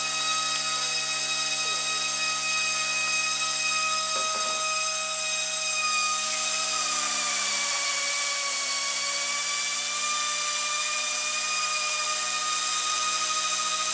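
Blade mCP X BL2 micro RC helicopter's brushless motor whining as the main rotor spins at steady speed. About seven seconds in the pitch drops and then settles a little lower as the throttle is eased back.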